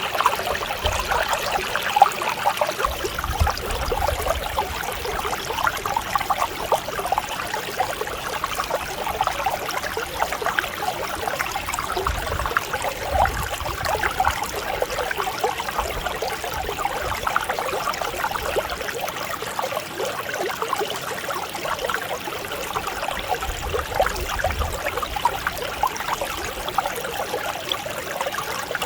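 Mountain stream running and babbling over rocks, a steady, even flow full of small splashes.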